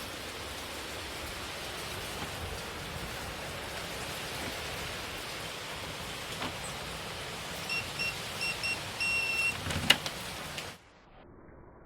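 Steady hiss of heavy hurricane rain. Near the end comes a short run of high electronic beeps, then a sharp click, and the rain cuts off suddenly to a much quieter background.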